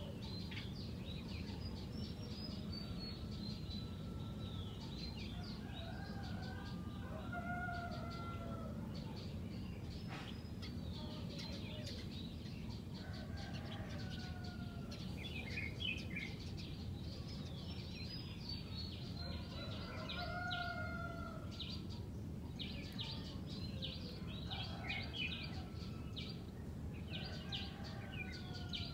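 Red-whiskered bulbuls singing: short, warbled whistle phrases every couple of seconds over a continuous chatter of higher, rapid chirps, with a steady low hum underneath.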